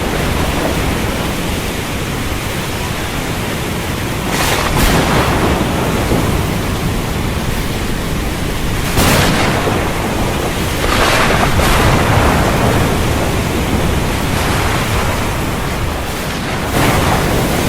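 Windstorm over the sea: a steady roar of wind and surf, with a rushing surge every few seconds, four times in all.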